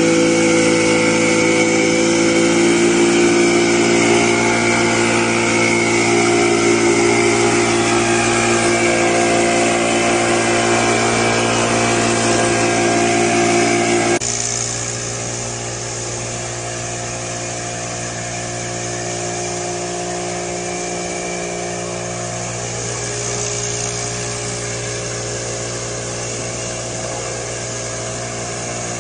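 Four-stroke gasoline backpack blower running steadily, engine note with the rush of the fan; about halfway through it suddenly drops to a lower level and runs on steadily.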